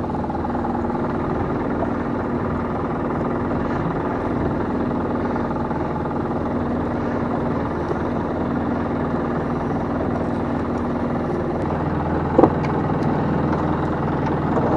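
Steady drone of a small fishing boat's engine and net-hauling gear running while a gill net is hauled aboard, with a single sharp knock about twelve seconds in.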